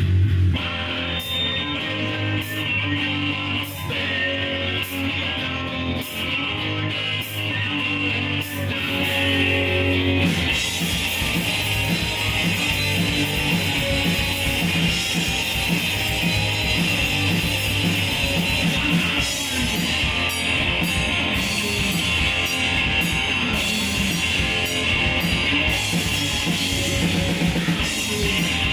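Rock music led by electric guitar and bass guitar; about a third of the way in the full band kicks in with drums, and the sound grows denser and louder.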